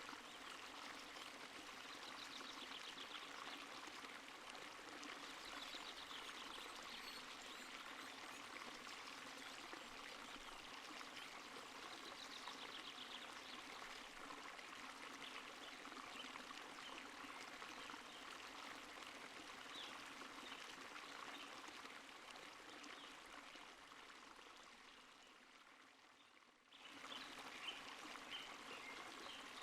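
Stream water running and trickling in a steady rush. It fades down briefly near the end, then cuts straight into another stretch of running water.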